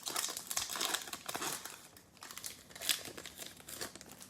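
Plastic trading-card pack wrapper crinkling in irregular bursts as a pack is handled and opened.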